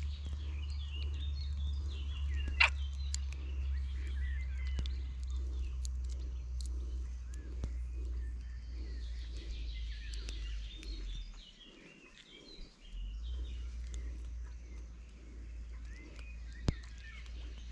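Birds chirping and singing, over a steady low rumble that drops away for a moment about twelve seconds in, with two sharp clicks, one near the start and one near the end.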